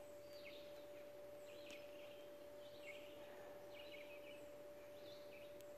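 Near silence: outdoor quiet with a few faint, short, falling bird chirps and a faint steady tone underneath.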